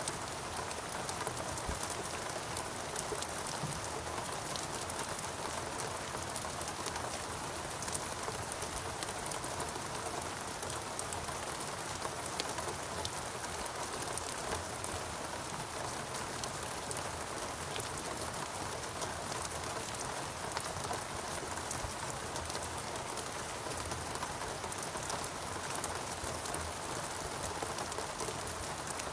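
Steady rain falling in a rainforest, a constant wash with many small drops ticking on leaves and surfaces.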